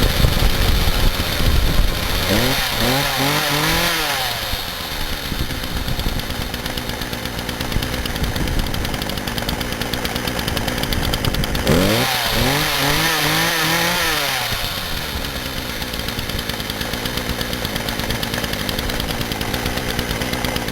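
McCulloch MS4016PAV two-stroke chainsaw running just after starting, off choke. It is revved twice, a couple of seconds in and again about halfway, each rev climbing in pitch and falling back to idle.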